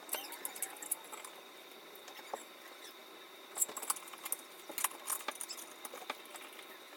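Scattered light clicks and small metallic taps from tools and parts being handled at a shower valve during a cartridge replacement, with a faint steady high whine underneath.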